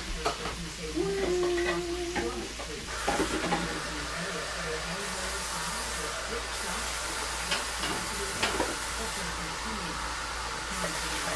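Jasmine rice sizzling as it fries in a saucepan, stirred with a silicone spatula, with a few scrapes and taps against the pot. The sizzle becomes a steady hiss from about three seconds in. A faint voice is heard in the first two seconds.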